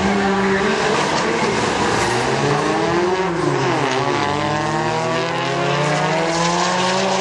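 Several racing car engines running loudly at once. About three seconds in, one engine's pitch drops, then climbs steadily as it revs up.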